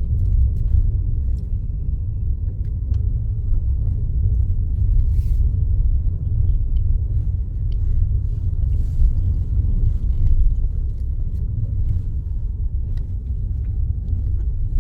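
Steady low rumble of a car being driven on the road, heard from inside the cabin.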